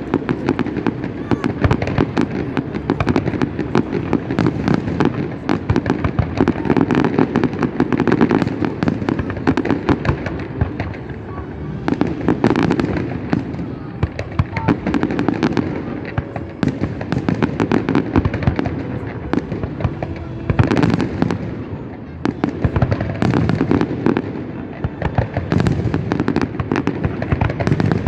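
Fireworks display: a rapid, continuous run of bangs and crackling from the shells, loud throughout, with a few heavier bursts partway through.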